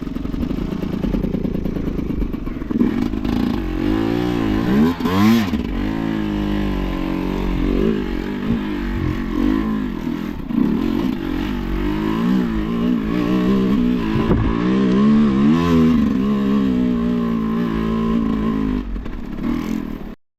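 Sherco enduro motorcycle engine being ridden hard, its revs rising and falling again and again as the throttle is worked over slippery ground, with some clatter from the bike. The sound cuts off abruptly near the end.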